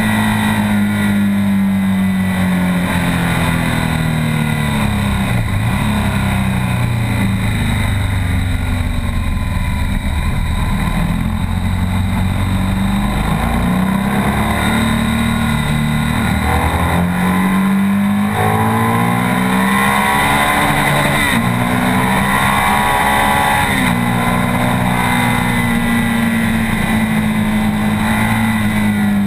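BMW R 1200 S boxer-twin engine heard from on board at track speed, its pitch falling away on the throttle off and braking early on, then climbing and dropping repeatedly as the rider accelerates, shifts gears and slows for corners.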